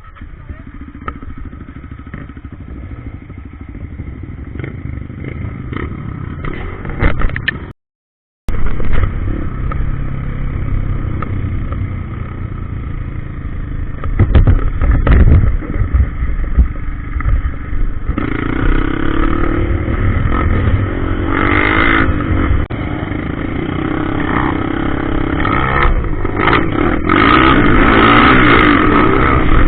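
Trail motorcycle engine running and revving as it is ridden over a dirt trail, with clattering and rattling. The engine grows louder over the last third, and the sound cuts out completely for under a second about eight seconds in.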